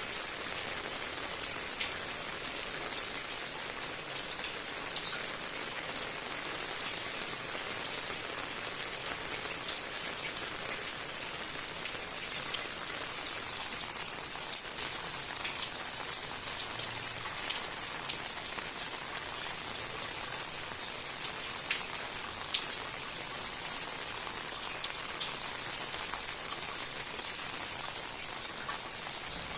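Steady rain falling, a dense hiss scattered with the sharp ticks of individual drops hitting surfaces.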